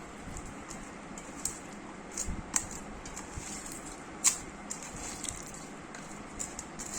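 Boiled chicken and rice being mixed by hand in a bowl: scattered soft squishes and small clicks, with a sharper click about four seconds in.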